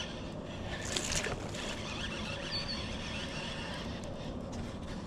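Steady rush of flowing river water, with a brief louder noise about a second in.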